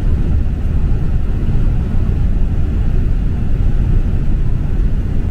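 Steady low rumble of a vehicle on the move, with no breaks or changes in level.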